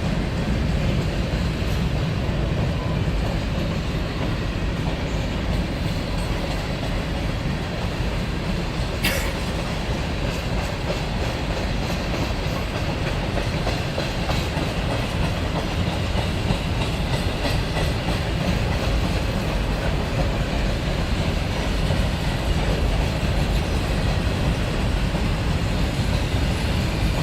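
Freight train cars rolling past in a steady rumble, with wheels clacking over the rail joints and one sharp click about nine seconds in.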